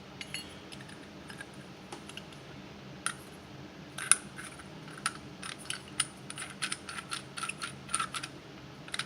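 Small metal parts of a Hoffman #7 steam radiator valve clinking and clicking against each other as they are handled. A few scattered clicks come first, then a quick, fairly even run of light metallic ticks through the second half.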